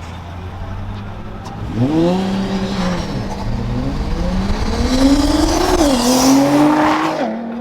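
Honda CR85 single-cylinder two-stroke dirt bike engine running steadily, then revved hard from about two seconds in as the bike pulls away and accelerates. Its pitch climbs, drops suddenly at gear changes twice near the end, and climbs again.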